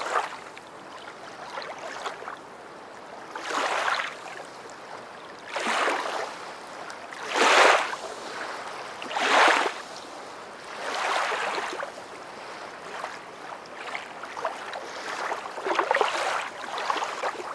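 Rushing water like washing waves, a steady hiss that swells and fades again and again, loudest about halfway through.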